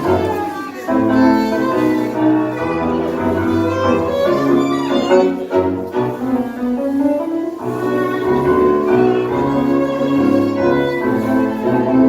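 Live tango music led by violin with piano accompaniment and a moving bass line, played continuously.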